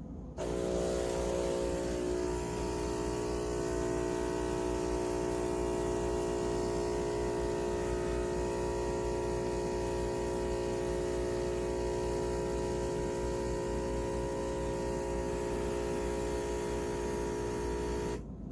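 Philips 4300 fully automatic espresso machine running with a steady mechanical hum, its motor or pump working at an even pitch, starting just after the beginning and cutting off suddenly near the end.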